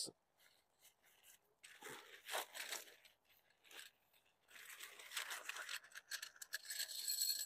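Bag of aluminium tent pegs being opened and handled: fabric rustling and scraping in two spells, with a few light clicks between.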